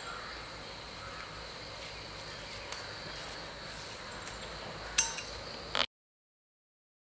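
Steady high insect chirring over outdoor background, with a sharp metallic clink of a utensil about five seconds in and a smaller knock just after; then the sound cuts out to dead silence.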